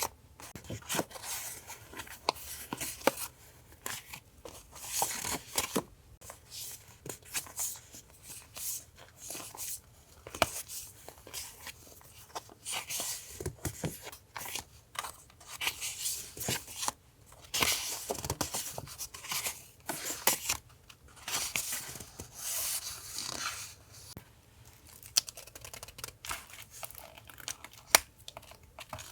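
Paper being torn, crinkled and handled in short irregular bursts, with small taps and clicks, as collage papers are worked for a journal.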